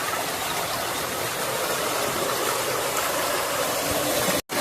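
Steady rushing noise like running water, cutting out for a split second near the end.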